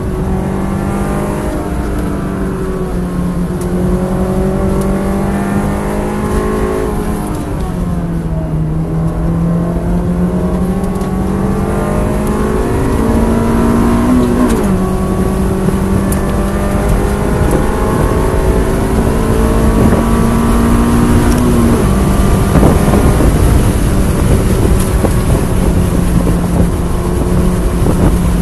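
Honda S2000's four-cylinder engine heard from inside the cabin, run hard at high revs on a track lap over road and wind noise. Its steady high note climbs slowly and drops back a few times as the driver shifts or lifts.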